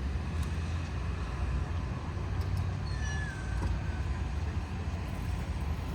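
Low, uneven outdoor rumble, with a brief high squeak that falls slightly in pitch about three seconds in.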